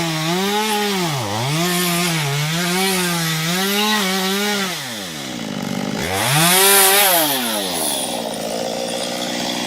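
Small chainsaw with a 15-inch bar cutting into an ash trunk, its engine pitch dipping about once a second as it bogs under the load of the cut. The pitch falls away about five seconds in, rises sharply for a second near seven seconds, then settles at a lower, steadier speed.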